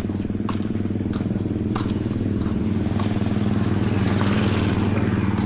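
Motorcycle engine running steadily at an even speed, with a few faint clicks over it.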